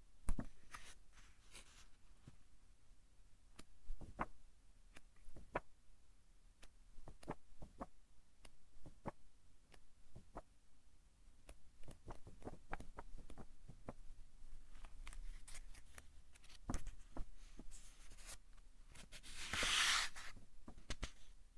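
Pages of a thick-papered book being turned: many small paper snaps and crinkles, with one louder swishing sweep of a page near the end.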